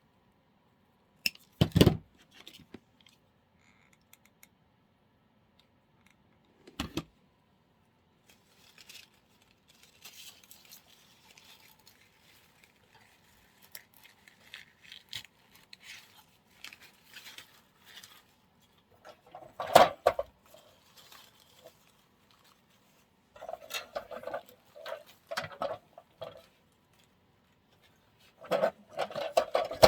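Artificial flower stems and foliage being handled and pushed into an arrangement: rustling with scattered light knocks and clatter, a sharper knock about two seconds in and another around twenty seconds.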